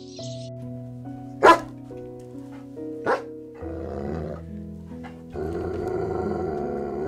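A dog barks twice, about a second and a half apart, then growls in two longer stretches, over background music.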